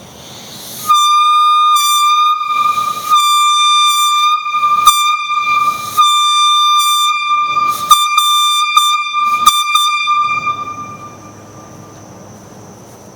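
Falcon single-chime boat safety air horn, fed from a compressor at about 30 PSI, being blown and quilled. One steady horn tone is cut by several brief breaks and restarts. It starts about a second in and trails off about ten seconds in.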